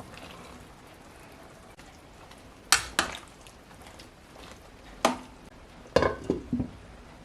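Sharp knocks and clinks on a cooking pot, about six in all, two close together near three seconds in and a quick run near the end, over a faint steady hiss of the curry simmering.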